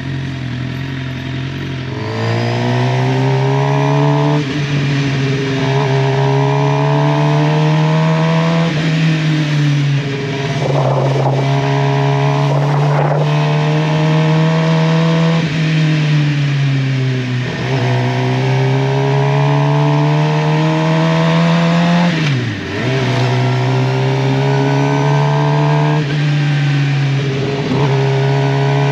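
Suzuki GSX-R750's inline-four engine running under way, rising in pitch over and over as the bike accelerates and dropping back between the runs, over a steady rush of wind noise.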